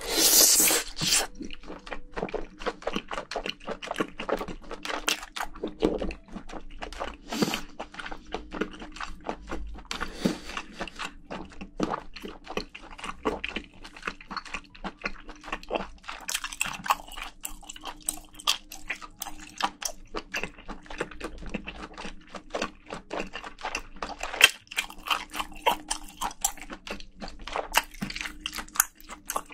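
Close-miked wet chewing and crunching of spicy braised seafood, with a loud slurp in the first second as a mouthful goes in, then a steady run of irregular smacks and crunches.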